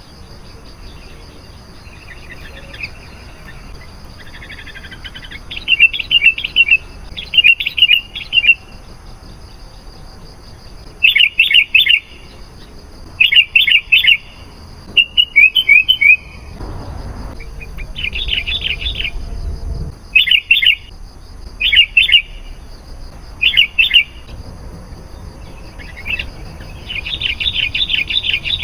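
Sooty-headed bulbuls (kutilang) singing: short bursts of quick chirping notes, repeated every second or two. Behind them runs a faint steady high whine, and a low rumble comes in briefly around the middle.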